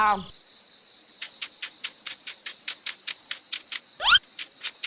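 Steady high-pitched insect chirring, with a regular pulsing chirp about five times a second from about a second in, and one short rising chirp about four seconds in.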